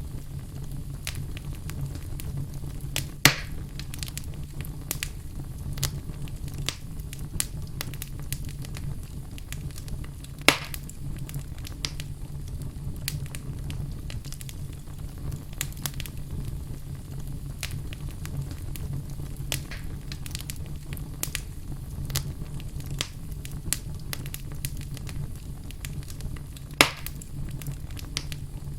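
Wood fire burning in a fireplace: frequent small crackles over a steady low rumble, with three louder pops spread through the stretch.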